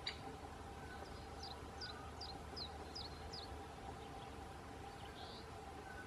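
A bird giving a series of about six high, quick downward-slurred notes, roughly two a second, then one more short note near the end. A single sharp click comes right at the start.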